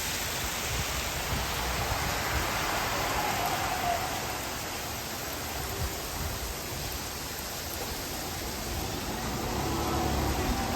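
Heavy rain falling in a thunderstorm, a steady, even rush of noise.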